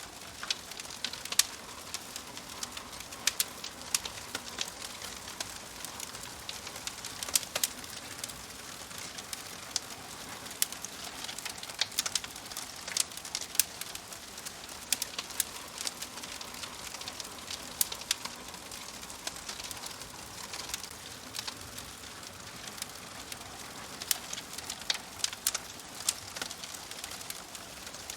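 Wood fire crackling: a steady soft hiss dotted with irregular sharp pops and snaps, some close together, others a second or more apart.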